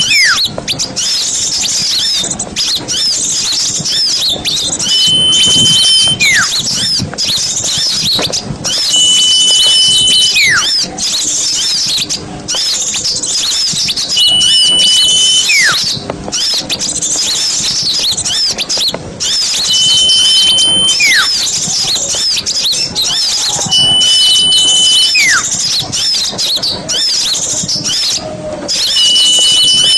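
Lure recording of many small birds chirping and chattering densely, with a whistle repeating about every four to five seconds: a held note followed by a quick falling note.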